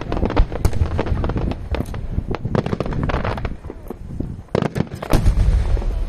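Aerial fireworks shells bursting in a rapid string of bangs and crackles, with a brief lull about four seconds in and then a few louder booms followed by low rumbling.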